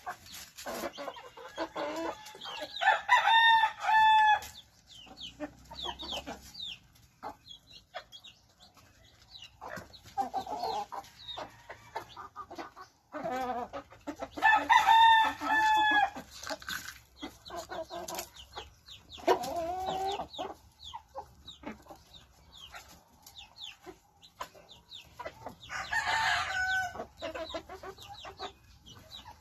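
A flock of chickens clucking, with roosters crowing loudly three times: about three seconds in, about fifteen seconds in and near the end.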